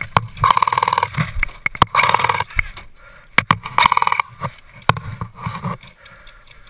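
Airsoft electric guns firing: three short full-auto bursts of rapid shots, each about half a second long, with single sharp shots or clicks between them.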